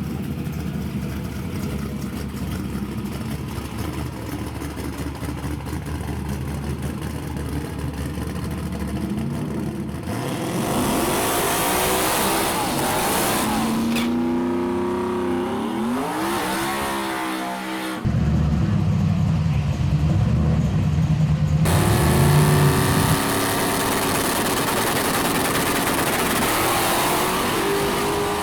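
Drag-racing car engines: a low, steady rumble for about ten seconds, then engines accelerating hard with the pitch rising through the gears, broken up by several abrupt cuts.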